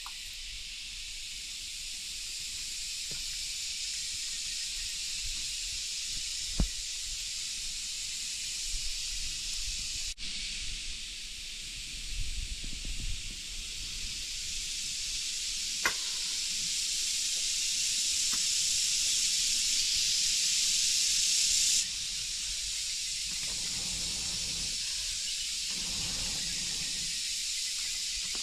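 Steady rain falling, an even hiss, with a couple of sharp clicks and a few soft knocks in it; the hiss drops suddenly to a lower level about three-quarters of the way through.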